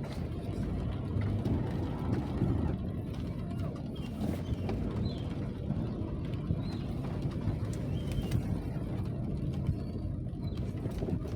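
Steady rain with a low, even rumbling noise throughout. A few faint short bird chirps come through in the middle part.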